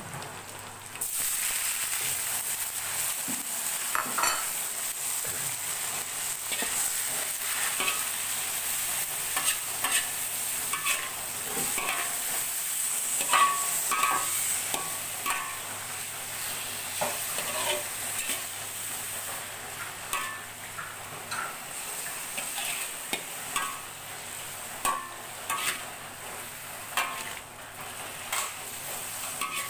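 Boiled bamboo shoot strips stir-frying with onion and dried anchovies in a metal wok: a steady sizzle that starts suddenly about a second in. A metal spatula scrapes and taps against the wok over and over as they are stirred.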